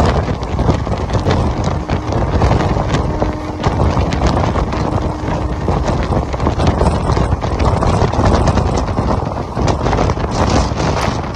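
Train in motion: a loud steady rumble of wheels on the rails with frequent short clicks and knocks, and wind buffeting the microphone.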